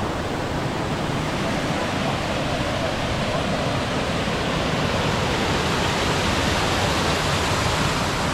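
Waterfall rushing close by: a steady, loud wash of falling water.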